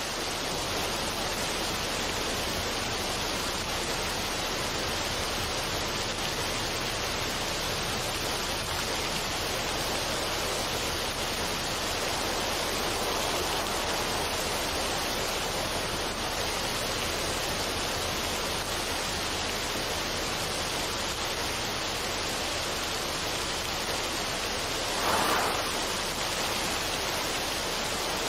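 Steady, even rushing noise like falling water, with a brief louder surge about 25 seconds in.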